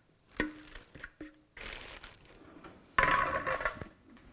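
Kitchen handling sounds: a bowl knocked down onto the counter twice with a brief ring each time, then rustling and a louder scraping rustle near the end.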